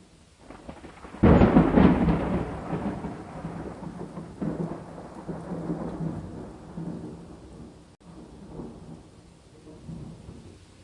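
A thunderclap breaks about a second in with a crackling crash, then rumbles on and fades over several seconds, with smaller rumbles later, over steady rain.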